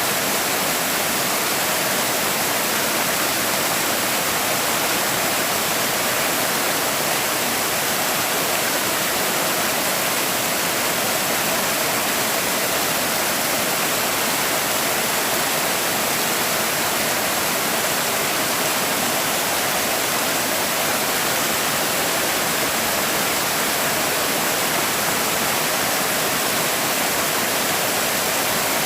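Forest stream with small waterfalls, water rushing and splashing in a steady, unbroken hiss.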